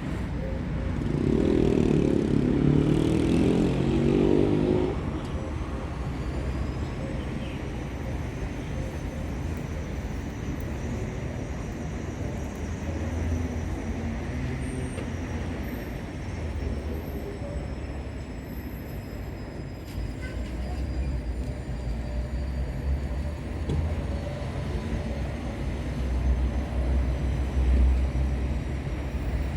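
Low steady rumble of background road traffic, with a louder pitched engine sound, a vehicle passing, between about one and five seconds in.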